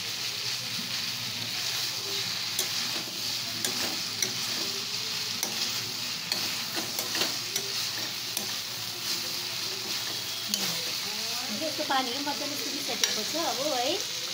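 Rice noodles sizzling as they fry in a steel kadhai, stirred and tossed with a metal spoon, with scattered clicks of the spoon against the pan.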